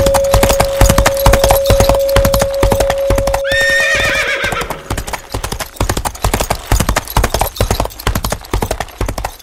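Horse hooves clip-clopping at a gallop with a steady rhythm, and a horse neighing once about three and a half seconds in. A long held note from the music ends about four seconds in, leaving only the hoofbeats.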